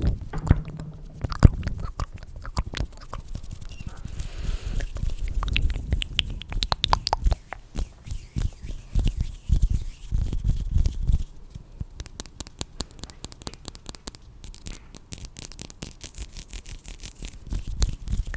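Close-miked ASMR trigger sounds: fast, wet, crackly clicks with soft low thumps in the first half, turning into a denser, finer crackle over the second half.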